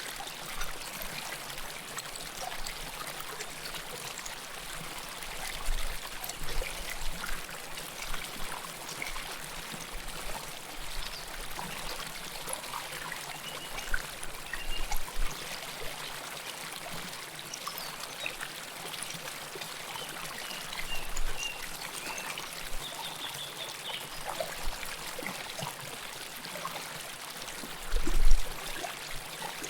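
A river flowing close to the microphone: a steady rush of water with constant small splashes and gurgles, swelling into louder gurgles every few seconds. Near the end there is a brief low thump, the loudest moment.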